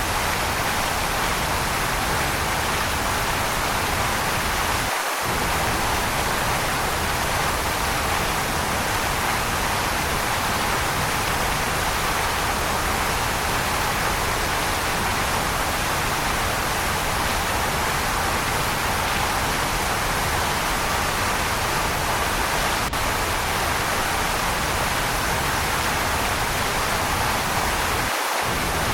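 Steady, unbroken rushing of a waterfall. Its deep low rumble drops out for an instant twice, about five seconds in and near the end.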